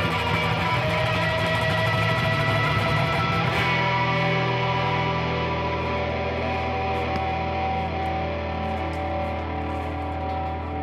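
A band playing an instrumental passage led by guitar, with no singing. A little under four seconds in, the busy playing thins out to held, ringing chords that slowly fade.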